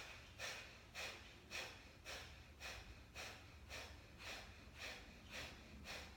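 Kapalbhati (breath of fire) breathing: short, forceful exhales pushed out through the nose in an even rhythm of about two a second, with quiet passive inhales between.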